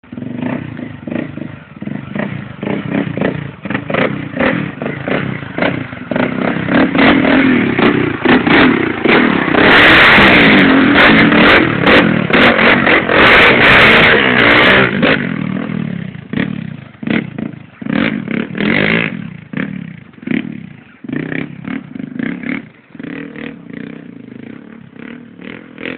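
Honda Tornado single-cylinder motorcycle engine, bored out to 340cc, running and revving hard, with many sharp clattering knocks throughout. It is loudest in the middle stretch, then eases off.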